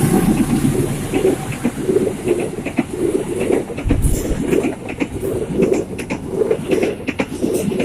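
Passenger train rolling past, its wheels rumbling on the rails with scattered sharp clicks.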